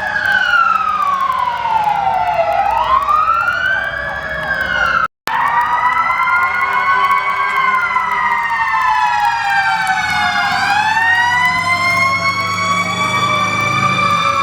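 Several emergency sirens on responding fire trucks wailing together, their pitch rising and falling in overlapping sweeps. The sound cuts out for a moment about five seconds in, and the wails are slower and longer after that.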